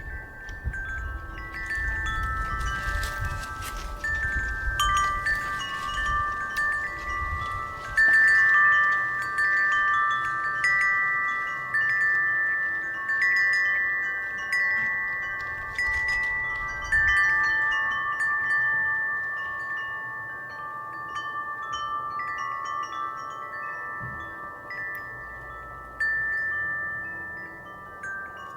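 Metal wind chimes stirred by the wind, striking irregularly and letting several long, overlapping ringing notes hang and fade, with the loudest strikes about a third and about halfway through. A low wind rumble lies under the chimes through the first half.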